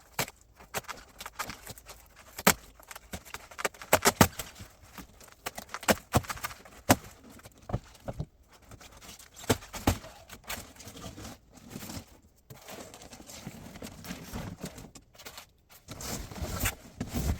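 Irregular knocks, taps and clicks of a new fridge-freezer being unpacked by hand, with softer rustling in the second half.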